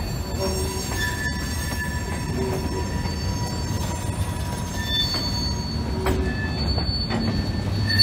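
Covered hopper freight cars rolling slowly past with a steady low rumble, and thin wheel squeals at several pitches that come and go.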